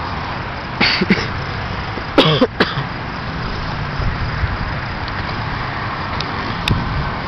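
Small 100 cc dirt bike running, heard mostly as a steady rushing noise, with a few short knocks about one and two seconds in.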